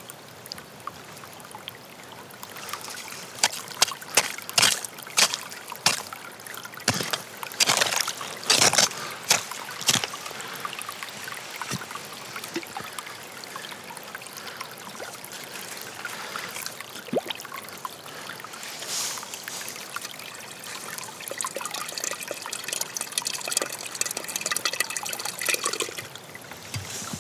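Water trickling and pouring, with irregular clicks and knocks for several seconds early on and a denser, steadier rush near the end.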